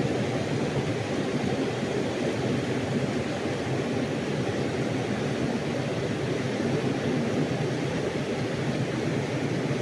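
Steady rush of flowing river water, an even noise with no changes.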